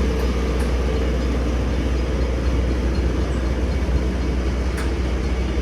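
Diesel engine on a standing passenger train idling steadily, a deep even hum.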